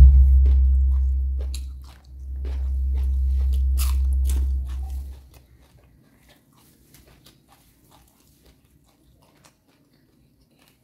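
Close-up crunching and chewing of raw lalapan vegetables, many crisp bites and chews at first, then only faint scattered chewing clicks. A deep low rumble sits under the chewing and dies away about five seconds in.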